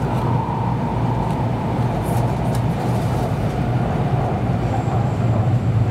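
Cabin noise of a Kyushu Shinkansen Sakura train running at speed: a steady low hum with an even rush of wheel and air noise.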